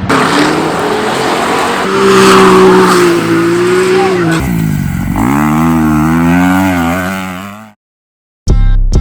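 Dirt bike engine revving, its pitch rising and falling, in two stretches cut together about halfway through. It fades out, there is a short gap, and then a deep bass hit and music start near the end.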